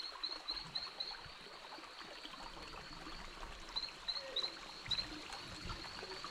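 Forest ambience: a small animal's short, high chirps repeating several times a second in runs that stop and start, over a faint background hiss.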